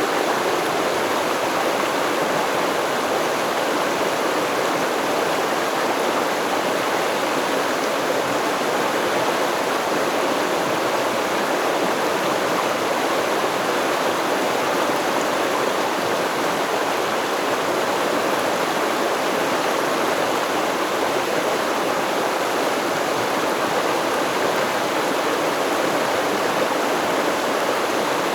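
Stream water flowing steadily, an even, unbroken rush with no birds or other sounds over it.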